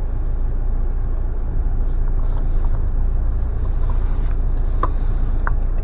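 Steady low rumble of a car's engine and tyres, heard from inside the cabin while driving slowly on a snowy road, with a few faint short ticks in the second half.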